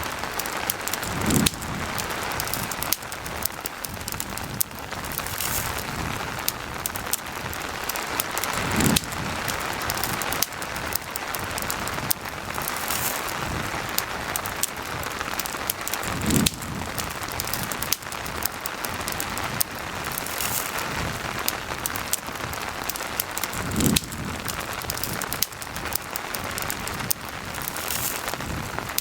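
Steady rain falling, with small crackling clicks from a campfire throughout. A low soft thump comes four times, about every seven and a half seconds.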